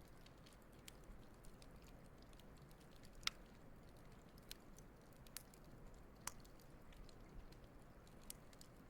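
Wood fire burning quietly, with sparse sharp crackles and pops over a low, soft rumble; the loudest pop comes about three seconds in.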